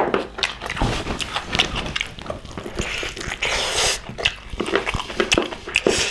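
Close-miked chewing and lip-smacking of people eating pig's feet curry and rice by hand: a steady run of wet smacks and sharp clicks, with a longer hissing smear about three and a half seconds in.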